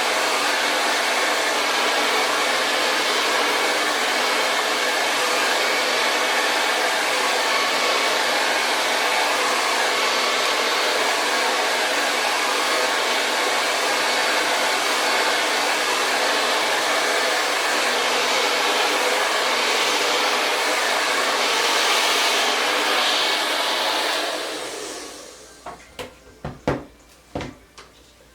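Hand-held hair dryer blowing steadily, then switched off near the end, its whir dying away over about a second. A few sharp clicks and taps follow.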